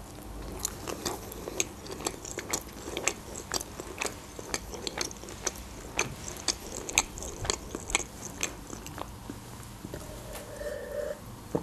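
Close-up chewing of a shawarma wrap: a string of small wet clicks and smacks of the mouth. Near the end she drinks from a glass, with a short steady-pitched swallowing sound.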